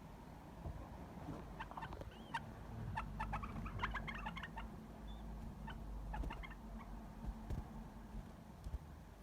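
Pet canary chirping and twittering in short runs of quick high notes, over a steady low hum.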